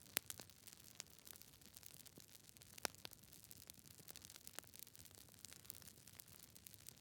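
Campfire burning close by: irregular sharp crackles and pops of burning wood over a soft steady hiss of flame, with a louder pop just after the start and another about three seconds in.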